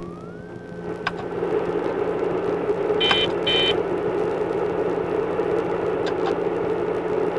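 Police cruiser driving, with a steady engine hum and road noise that grows louder over the first two seconds. Two short electronic beeps sound about three seconds in.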